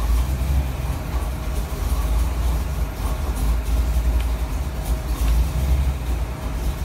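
Ford 331 stroker small-block V8 on an engine dyno, idling at low rpm with a steady low running sound before the test pull.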